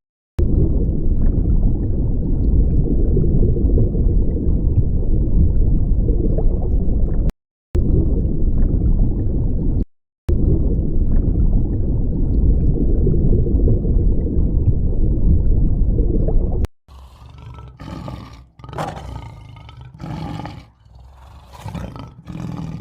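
A large animal roaring and growling: a long, deep rumbling roar broken by two short cuts, then shorter, higher-pitched calls in the last few seconds.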